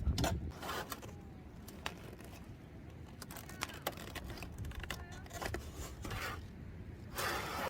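Scattered clicks and knocks with short scraping or rustling sounds, the longest and loudest about seven seconds in: gear being handled.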